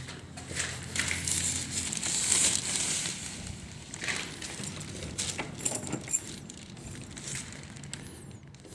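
Plastic sheeting crinkling and rustling as it is handled, with irregular crackles.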